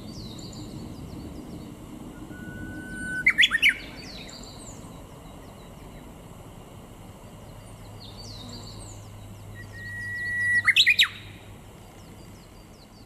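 Japanese bush warbler singing its hoo-hokekyo song twice, about seven seconds apart: each song is a long steady whistle that breaks into a quick rising-and-falling flourish, the second pitched a little higher. Faint chirps of other small birds sound behind it.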